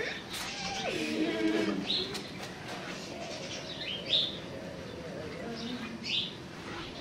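A bird chirping: a short, high chirp about every two seconds.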